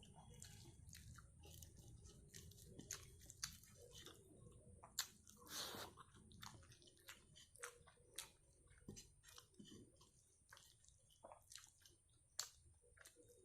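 A person chewing and biting food close to the microphone: many short, sharp, wet clicks and crunches, with one longer noisy stretch about halfway through.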